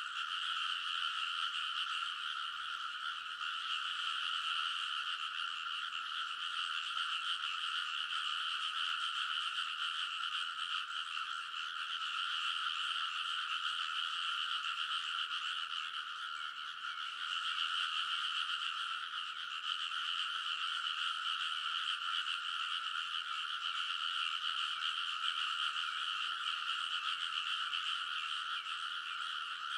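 A dense chorus of many frogs calling all at once, a steady unbroken din of overlapping calls that thins slightly about halfway through.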